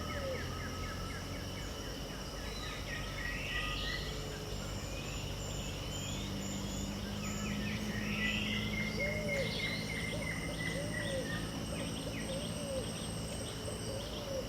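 Pantanal dawn chorus: several birds calling over a steady drone of insects. Rapid trills and upslurred whistles come from some birds, and from a little over halfway in a low, arched call repeats about once a second.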